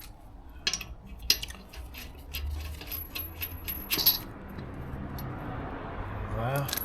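Metal wheel nuts clinking as they are handled and threaded onto the wheel studs by hand: a scattering of sharp, ringing metallic clicks.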